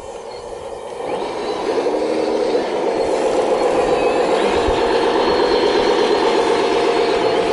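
Full-size excavator's diesel engine running, picking up about a second in and then holding steady.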